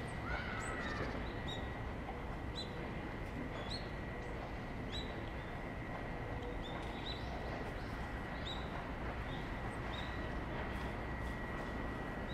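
Small birds chirping: short, high notes repeating every half second to a second, over a steady background hum with a faint thin whine.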